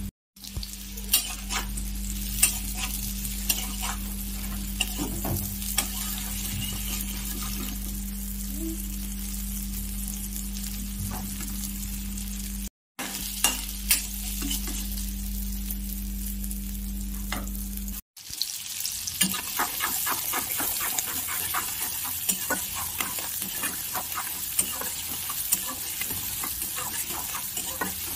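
Jackfruit pieces frying in a wok, with crackles and the scrape of a steel spatula stirring them over a steady low hum. After a brief gap about 18 seconds in, chopped onions sizzle in hot oil, with denser crackling.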